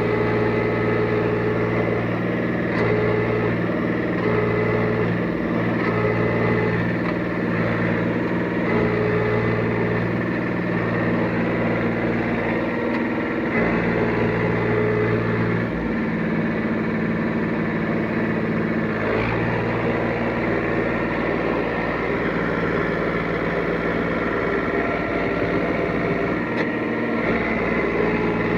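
Tractor engine running hard under load, labouring as it tries to pull the stuck tractor out of mud. Its pitch shifts a few times around the middle.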